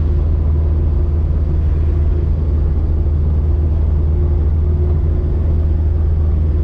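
Car engine running steadily at cruising speed, heard from inside the cabin as an even low drone.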